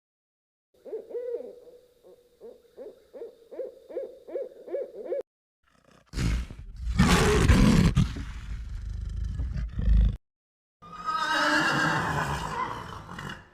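Three animal calls one after another: a run of about a dozen short, evenly spaced hoots, then a long, loud, rough roar, then a shorter call near the end.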